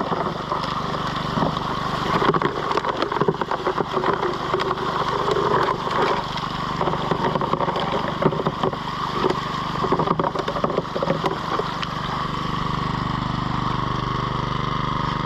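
Small petrol engine driving a high banker's water pump, running steadily, with irregular clattering and splashing over it that stops about twelve seconds in.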